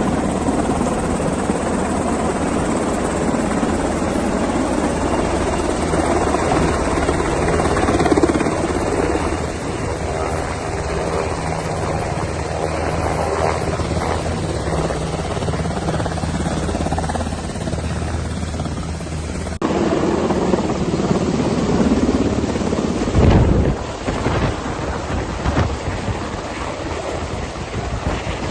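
Helicopter running close by, a steady rotor and engine drone. The sound is cut about two-thirds of the way through, and a brief loud low thump comes shortly after.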